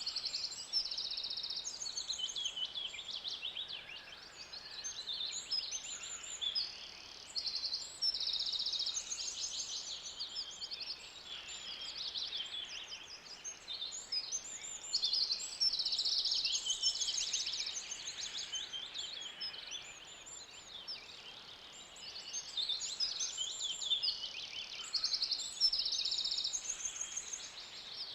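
Forest ambience full of birdsong: many birds calling over one another in quick trills and chirps, high-pitched, over a faint steady background.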